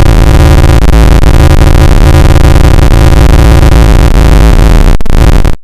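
Deliberately ear-splitting, heavily distorted blast of music-like electronic noise, clipped at full volume, with heavy bass under a stack of steady tones. It starts abruptly and cuts off suddenly near the end.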